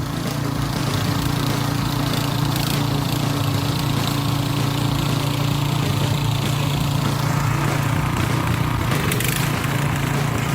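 Single-cylinder 170 petrol engine on a mini tiller-harrow running steadily under load, its note not quite even, which the owner puts down to the engine being short of petrol.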